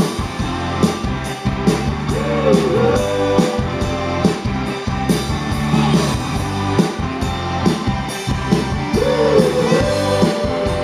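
Live rock band playing: drums and bass under a melody line that bends up and down twice.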